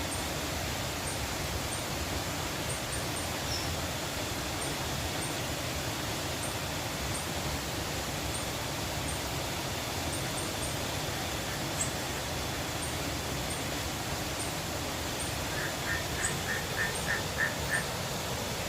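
Steady rushing of a river, with faint high chirps repeating every half second or so. Near the end comes a quick run of about seven short bird calls.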